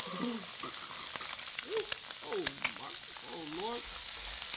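An egg frying in hot oil in a stainless steel skillet alongside sliced hot dogs and onions, sizzling steadily with sharp crackling pops.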